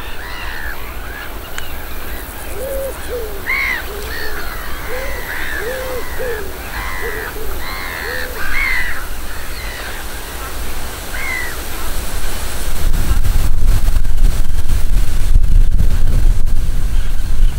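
A series of short, arched bird calls, some low-pitched and some higher, for the first eleven seconds or so. From about two-thirds of the way in, wind rumbles on the microphone and becomes the loudest sound.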